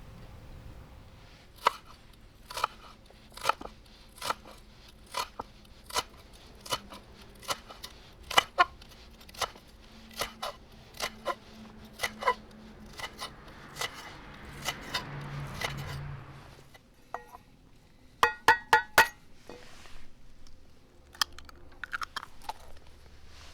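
Kitchen knife slicing a Japanese long green onion thinly on a wooden acacia cutting board, a crisp cut-and-tap about one and a half times a second. Later, a quick run of sharp taps as eggs are cracked against a bowl.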